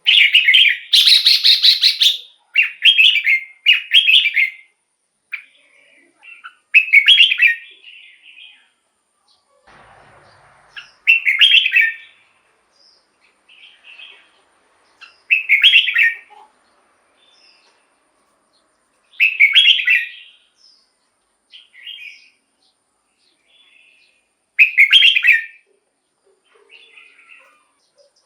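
Red-whiskered bulbul singing in short, bright, whistled phrases. There is a quick run of phrases at the start, then one phrase about every four seconds, with softer notes between.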